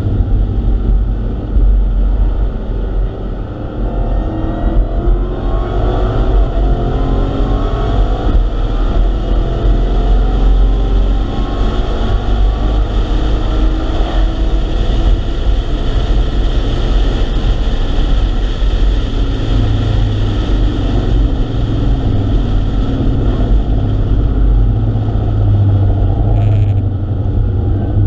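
Supercharged 6.2-litre Hemi V8 of a Dodge SRT Hellcat Redeye heard from inside the cabin under hard acceleration, its pitch climbing several times as it pulls up through the revs, over a heavy low rumble of wind and road noise.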